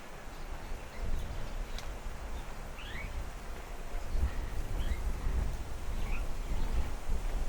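Small birds giving short, scattered chirps, some quickly rising, over a steady low rumble that is the loudest sound.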